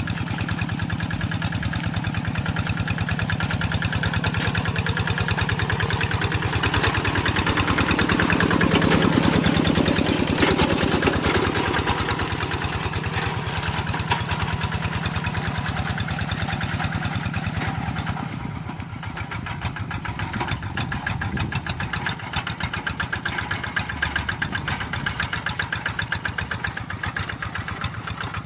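Tractor engine running steadily with a rapid, even beat. It grows louder about a third of the way in, then drops back somewhat about two-thirds of the way through.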